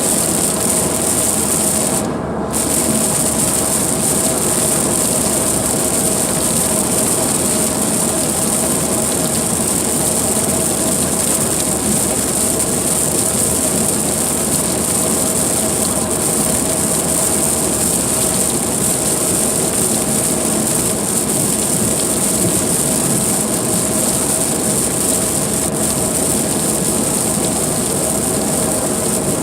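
A car driving through a heavy rainstorm: a steady loud wash of rain and tyre spray on the wet road, with the hiss briefly cutting out about two seconds in.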